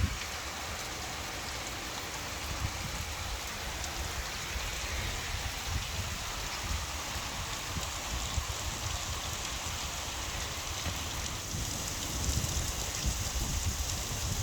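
Steady rain falling, an even hiss of drops with a low rumble underneath, growing a little louder about twelve seconds in.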